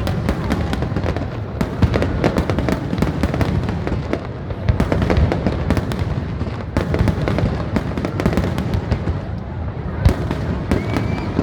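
Fireworks display: many bangs and crackles in quick succession, without a pause.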